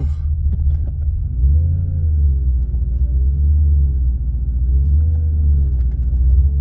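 BMW M60 V8 engine of an E23 7 Series running under way, heard from inside the cabin: a deep, steady drone with a fainter tone above it that rises and falls several times.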